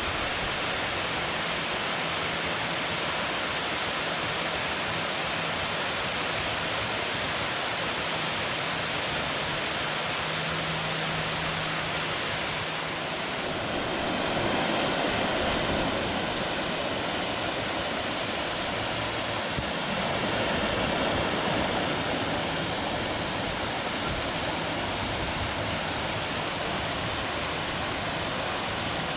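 Water rushing steadily below a dam, where the river flows out of the reservoir and water falls from the dam. The rush swells a little twice midway.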